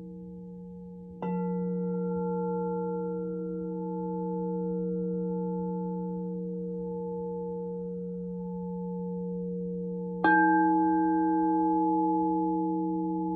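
Alchemical crystal singing bowls ringing in several steady, overlapping pitches. A bowl is struck about a second in and again about ten seconds in; each strike adds a new ringing tone that slowly fades over the sustained low hum of the others.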